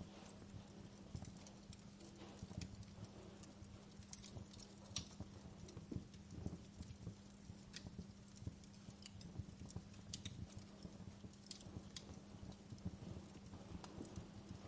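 Wood fire crackling quietly: irregular small pops and snaps, several a second, with a few louder cracks.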